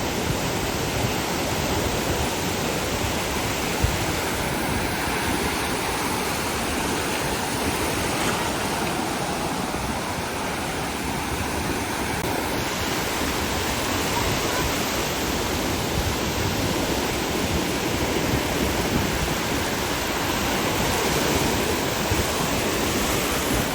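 Ocean surf washing onto the beach: a steady, unbroken rushing noise.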